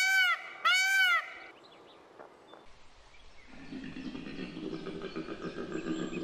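An Indian peacock gives two loud, short calls in quick succession, the last of a run of repeated calls. After a pause, a koala's bellow sets in about halfway through: a low, rapidly pulsing grunting that grows louder toward the end.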